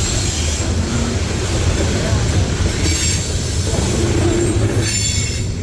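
Norfolk Southern train rolling past, a steady low rumble of wheels on rail with a thin high squeal near the end.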